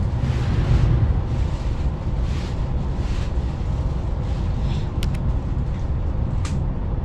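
Passenger train running, heard from inside the carriage: a steady low rumble with a hiss over it. A few light clicks come in the last two seconds.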